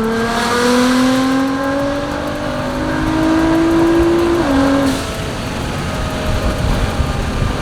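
Nissan GT-R R35's twin-turbo V6 through a straight drag exhaust, pulling hard at 15 psi of boost with the engine note rising steadily. About four and a half seconds in the pitch steps down, and the rest is a rougher, uneven exhaust sound.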